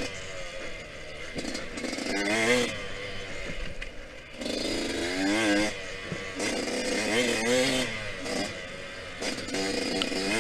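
Yamaha YZ125X 125cc two-stroke single-cylinder dirt bike engine under race throttle. It revs up in rising waves, then drops back, about every two to three seconds as the rider accelerates and shifts.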